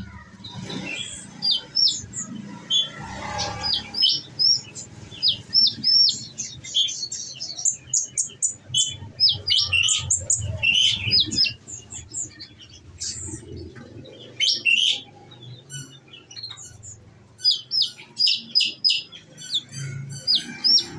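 Olive-backed sunbird (kolibri ninja) singing in full voice: quick runs of short, high, sharp chirps fired off in rapid bursts, the 'nembak' song its keepers prize.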